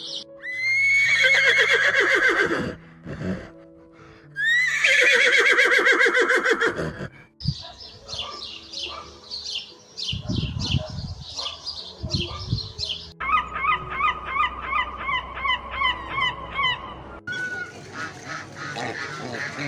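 Farmyard fowl calling in a series of cut-together clips: two long, loud calls a couple of seconds apart, then quicker repeated calls, including a run of short calls at about four a second, over light background music.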